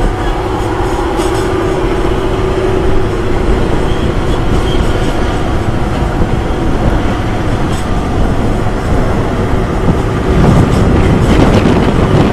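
Passenger train running along the track, heard from on board: a steady rush and rumble of wheels on rail with a few faint clicks, growing a little louder near the end.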